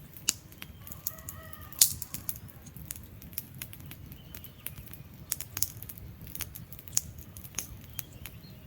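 Wood fire in a fireplace crackling: irregular sharp pops and snaps of burning logs over a low steady rumble of flame, with the loudest pop just under two seconds in. A faint brief whistle comes from the burning wood about a second in.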